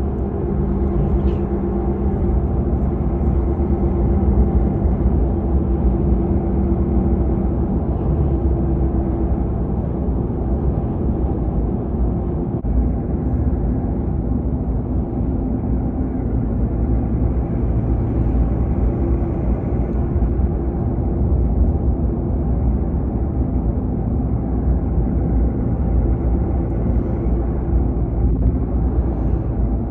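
Steady rumble of a car driving, heard from inside the cabin: engine hum and road noise, the engine's pitch shifting a little now and then.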